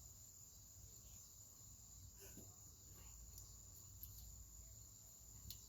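Near silence: a faint steady high-pitched drone and a low rumble, with a few faint ticks.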